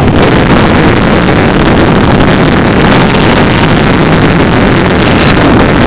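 Strong storm wind buffeting the microphone, heard with the vehicle's rumble as a loud, steady rushing noise.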